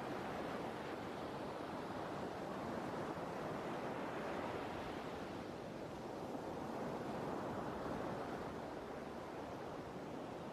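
Sea surf: a continuous rush of waves breaking and washing, swelling and easing twice.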